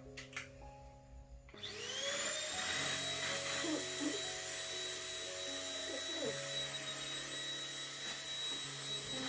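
Bolde Super Hoover Mite Crusher handheld mattress vacuum switched on after a couple of clicks: its motor spins up with a rising whine about a second and a half in, then runs steadily at a high pitch.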